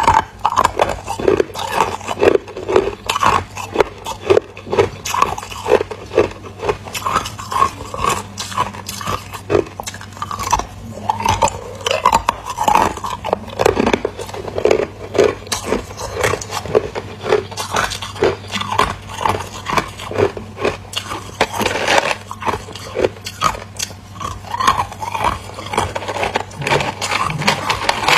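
A person biting and chewing ice: a continuous run of crisp crunches, about two to three a second.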